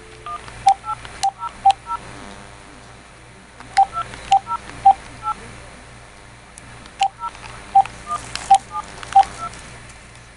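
Touch-tone telephone keypad being dialed in three quick runs of button presses. Each press is a short two-tone beep, many of them with a sharp click of the key.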